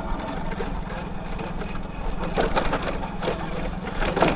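Motorcycle engine running at a steady speed, an even low drone.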